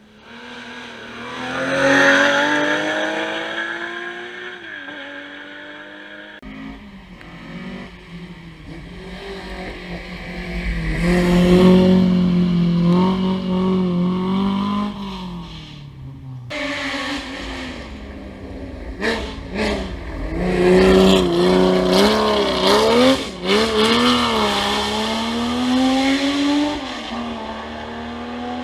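Historic rally cars driven hard past, engines revving up and down through gear changes, with some tyre squeal. The sound comes in three separate passes that cut into one another.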